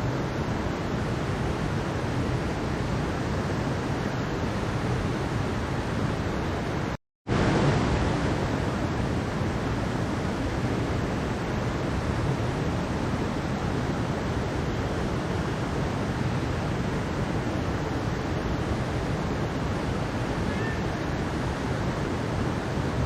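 Mountain stream water rushing steadily, an even continuous wash of water noise. About seven seconds in it cuts out to silence for a split second and then resumes.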